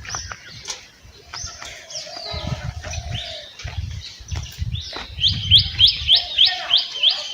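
Small birds chirping, ending in a quick run of sharp, rising chirps at about four a second, which is the loudest part.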